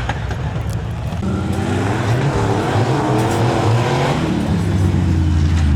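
Tuff truck engine revving up and down several times as it works over the obstacle course, then settling into a steadier low running note.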